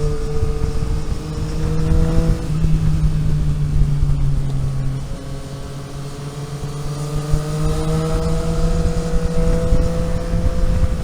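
Car engine under load over low road rumble. It rises in pitch to an upshift about two and a half seconds in, eases off, then pulls up through the revs again until another drop near the end.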